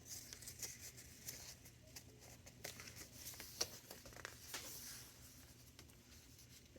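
Faint rustling and light ticks of paper pages and ephemera in a thick handmade junk journal being handled and turned.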